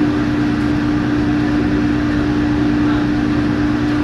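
Kitchen machinery running with a steady drone and a constant low hum.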